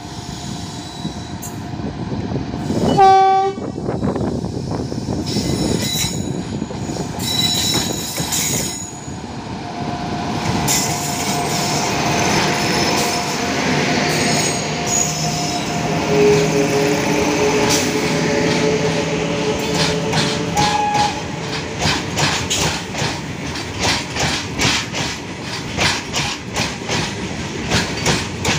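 Twin WAG-9 electric locomotives hauling a long goods train. A short horn blast sounds about three seconds in, then the locomotives pass with a steady whine. In the second half the wagons roll by with a rhythmic clatter of wheels over the rail joints.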